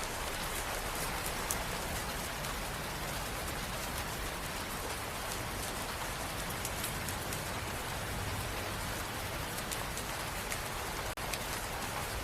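Steady rain falling, an even hiss with scattered sharp drop ticks; the sound dips for an instant near the end.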